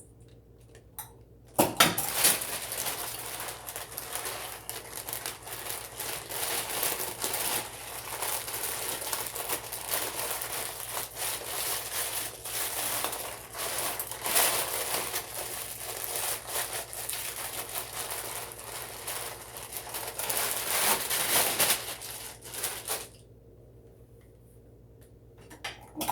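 Rolled oats being handled for horse cookies: a dense crinkling and scraping that starts about two seconds in and stops a few seconds before the end.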